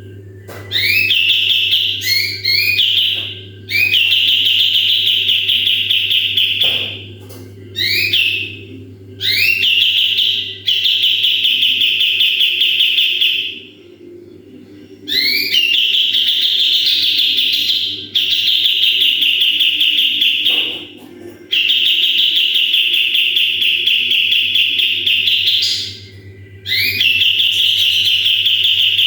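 Kapas tembak songbird singing loudly in repeated phrases. Each phrase opens with a few quick rising whistled notes, the 'shots' bird keepers prize, then runs on as a fast, dense trilling warble for two to four seconds before a short pause. A faint steady low hum runs underneath.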